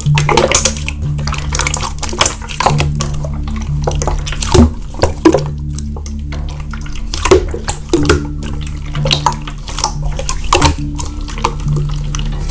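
Background music with a repeating low bass line, over the wet squishing and crackling of slime being played with by hand.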